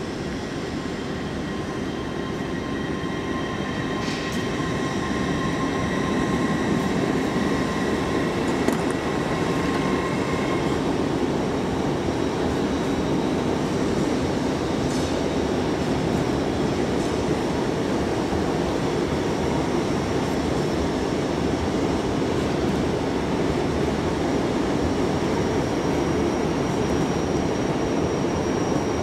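A train at the station: a steady rumble that builds over the first few seconds, with thin whining tones above it that stop about ten seconds in.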